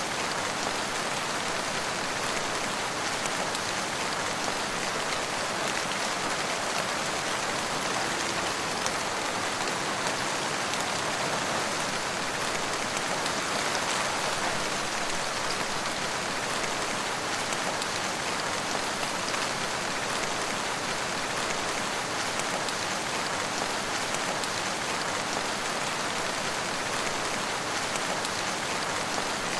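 Steady rain falling, a dense even hiss of drops spattering on surfaces.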